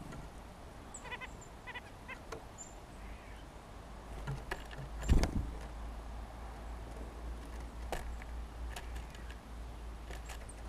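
Small songbirds at a feeder: a few short nasal call notes early on, some thin high chips, and scattered taps and pecks, with one louder thump about five seconds in.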